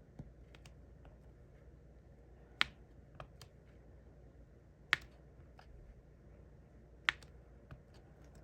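Sharp clicks and taps of a diamond-painting drill pen picking up resin drills and pressing them onto the sticky canvas. Three louder clicks come about two seconds apart, with fainter ticks between them.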